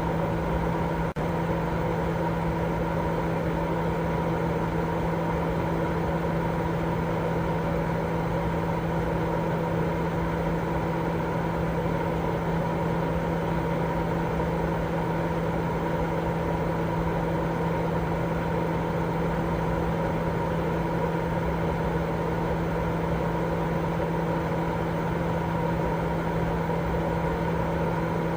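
Continuous baby-sleep white noise: an even, unchanging hiss with a steady low hum and fainter higher tones running through it, like a running motor or appliance. It dips briefly about a second in.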